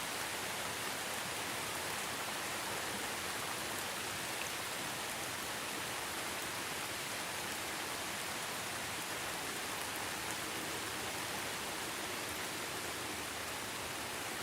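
Steady rain falling, an even, unbroken hiss without thunder.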